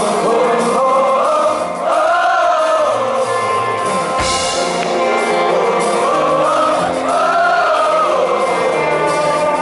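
Rock band playing live, with long sung vocal lines rising and falling in pitch over the band.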